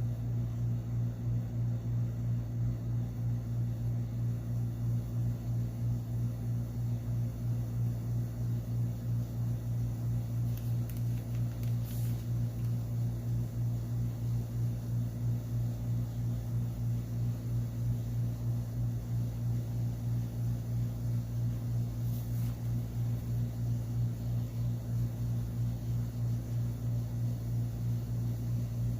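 Steady low hum with a single deep tone, unchanging throughout, plus two faint brief high ticks, about twelve and twenty-two seconds in.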